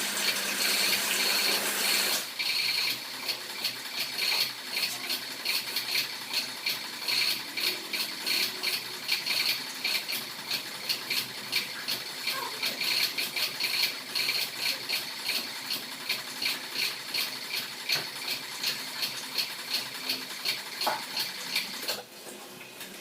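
Pressure washer spraying water at a car wash. A steady hiss for about two seconds, then a fast pulsing spray at several pulses a second that cuts off about a second before the end.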